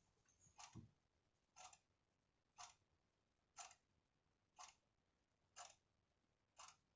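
A clock ticking faintly and evenly, about once a second.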